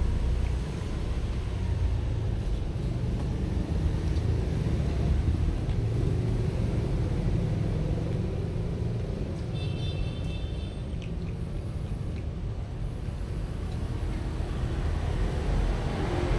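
Steady low outdoor rumble of background noise. A brief high-pitched tonal squeak sounds about ten seconds in.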